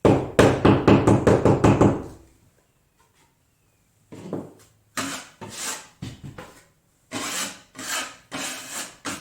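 Putty knife scraping and spreading drywall compound over marks on a drywall wall: a dense burst of quick strokes for about two seconds, a pause, then a run of separate strokes.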